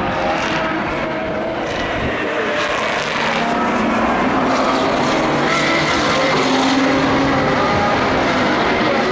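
Several high-performance car engines running at once, their tones overlapping and shifting in pitch, growing slightly louder towards the end.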